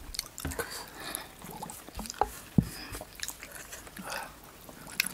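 Close-up eating sounds: biting and chewing grilled buffalo meat (sekuwa) with small wet mouth clicks. One sharper click comes about halfway through.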